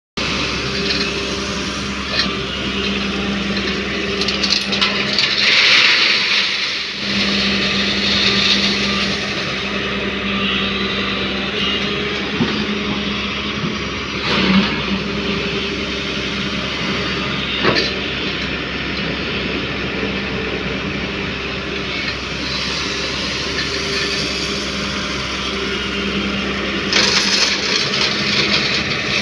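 A diesel engine runs steadily at one even pitch while crushed stone is loaded into a Mahindra tractor's trolley. Gravel pours in with a loud rattling rush about five seconds in and again near the end, with two shorter crashes in between.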